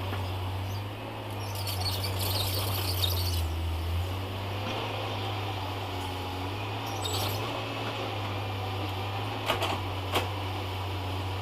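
Heavy diesel engine running steadily with a low hum, with birds chirping over it, a brief hiss about two seconds in, and two sharp clicks near the end.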